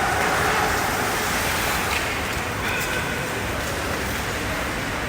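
Steady background noise of a hockey game in an arena, with a couple of faint knocks about two seconds in.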